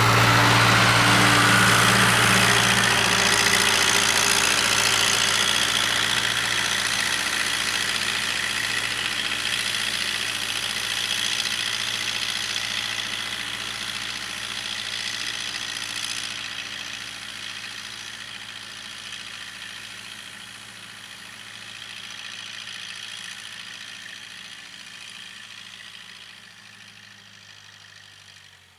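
Diesel engine of a Case 580K loader backhoe running steadily, growing gradually fainter.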